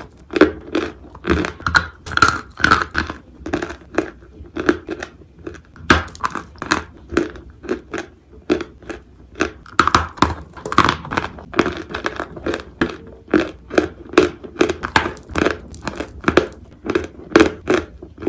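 Dry chunks of Turkestan clay being bitten and chewed: a continuous, irregular run of crisp crunches, a few each second.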